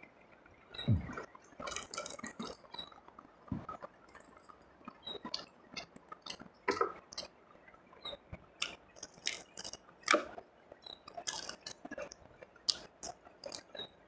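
Close-miked chewing and mouth sounds of a person eating fried eel and fried rice by hand: irregular short sharp clicks, smacks and bites throughout.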